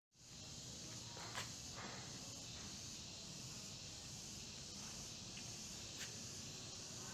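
Faint, steady high hiss of outdoor background, with a couple of soft ticks.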